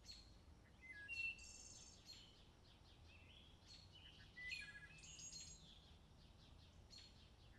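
Faint birdsong: scattered short chirps and whistles from small birds, over a low background rumble of outdoor ambience.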